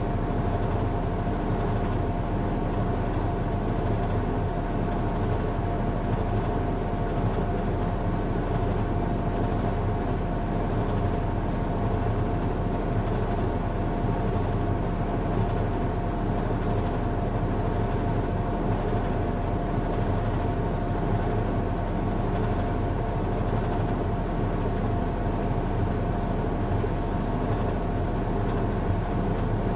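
Washing machine running on a strong cycle: a steady motor hum and rumble with a constant mid-pitched whine, unchanging throughout.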